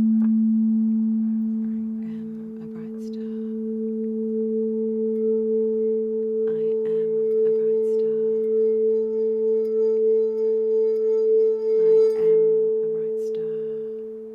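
A singing bowl sounding a sustained low hum with a higher tone above it. The higher tone swells and wavers in a steady pulse, then fades near the end.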